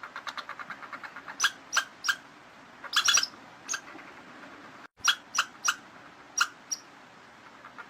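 A small animal squeaking: a quick run of short, high squeaks at first, then single and paired sharp squeaks spaced about a second apart, with a brief silent break just before the end.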